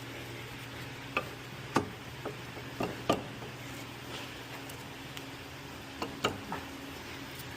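Irregular sharp clicks and knocks of tools and parts being handled while a lower control arm is fitted to a car's suspension. There are about eight of them in two clusters, one in the first few seconds and one a little after the middle, over a steady low hum.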